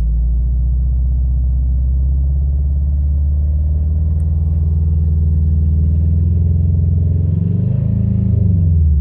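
2015 Subaru WRX STI's turbocharged flat-four engine, with a catless downpipe and aftermarket exhaust, running at a steady speed, then revved up and back down once near the end. The engine has developed a rattling noise that the owner suspects could be rod knock.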